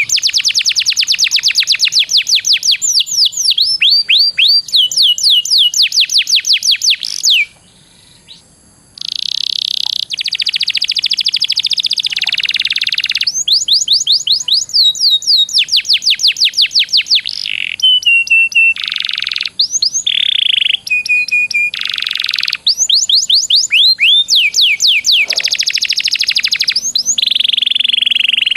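A songbird singing long, rapid runs of repeated sweeping high notes, broken by buzzy held notes and short pauses, with a brief break about eight seconds in: continuous 'ngeroll' song used as a training recording.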